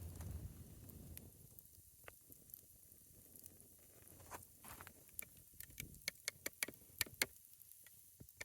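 Campfire crackling: scattered sharp pops and snaps of burning wood, coming more often and louder in the second half.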